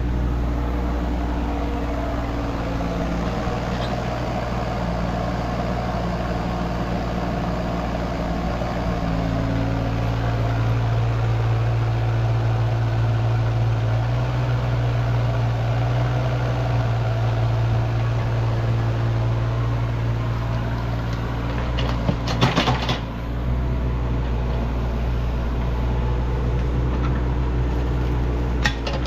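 Excavator engine running steadily under load, its note shifting about ten seconds in. A short clatter of knocks comes about two-thirds through and another near the end, as the machine backfills a trench.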